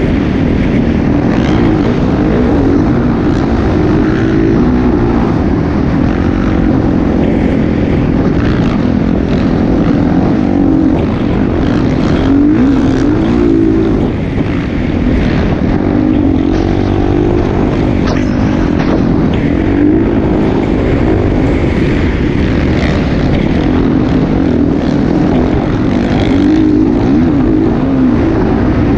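Motocross bike engine running hard, its pitch rising and falling again and again with the throttle, over a heavy low rumble.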